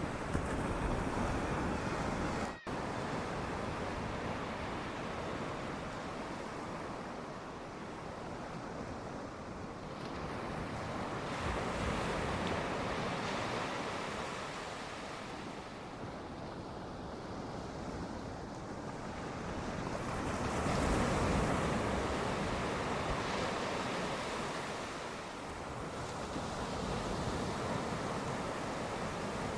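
Sea waves breaking and washing on the shore, the surf swelling and easing every several seconds. A momentary dropout breaks the sound about two and a half seconds in.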